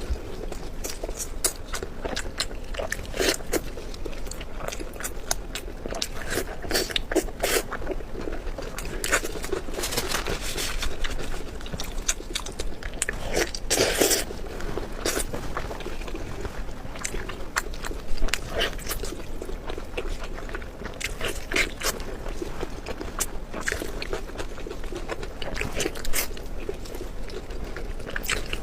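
Close-miked eating sounds of a person biting and chewing spicy pork belly. Many short, sharp mouth clicks and smacks come at an uneven pace throughout.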